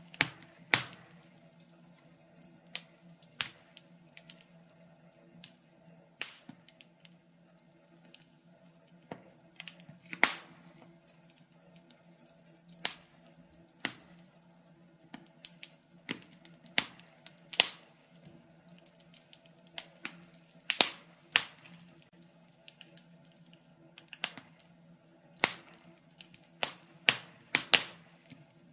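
Wood fire crackling in a fireplace: irregular sharp pops and snaps, some loud and some faint, at uneven intervals, over a faint steady low hum.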